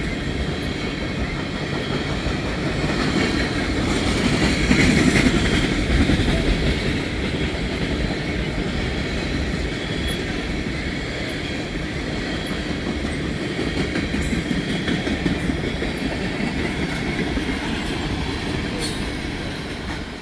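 Oil train's tank cars rolling past: a steady rumble of steel wheels on rail with a clickety-clack over the rail joints, loudest about five seconds in, with a faint wheel squeal at times.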